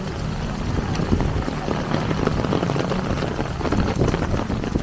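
Heavy rain pattering densely on an umbrella overhead, with steps splashing through shallow floodwater on the street.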